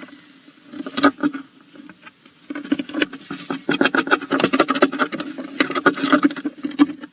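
Tawny owl moving about inside a wooden nestbox: a brief cluster of scratches and knocks about a second in, then a rapid, busy run of scratching and scrabbling that lasts most of the rest. This is the kind of sound a bird makes working the box's floor while readying it for nesting.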